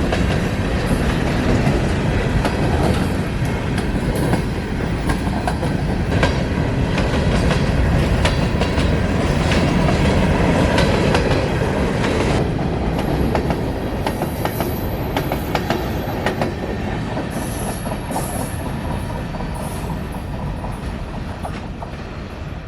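Train cars rolling past: a continuous rumble with rapid clicking and clatter of wheels over the rail, and a faint high wheel squeal in the second half. The sound gradually fades as the train moves away.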